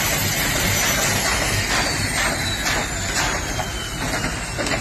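Helicopter running with a steady rush of noise, a low rotor beat about two or three times a second, and a high turbine whine that slowly falls in pitch.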